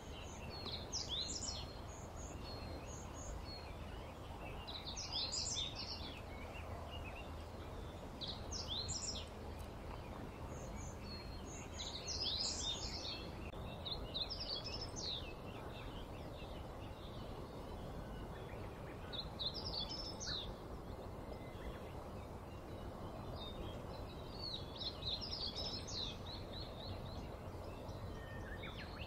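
Small birds chirping: clusters of quick, high notes every few seconds, over a steady low hum.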